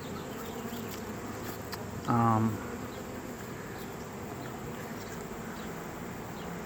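Steady buzzing of a honeybee swarm just taken into a swarm box. About two seconds in, a man's voice makes a brief wordless sound.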